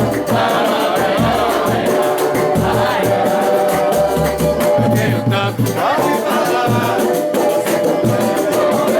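Live samba music: a band playing with steady percussion and shakers, a bass line, and voices singing.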